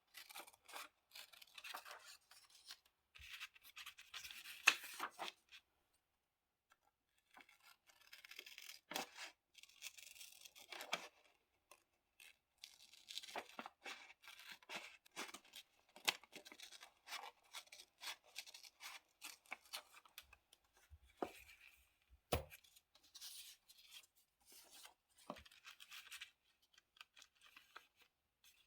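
Diary-decorating paper work at a desk: paper and stickers rustling, rubbing and tearing, with many small clicks and taps of tools handled and set down. A brief pause comes about six seconds in, and a sharper knock, a tool put down on the desk, comes about two-thirds of the way through.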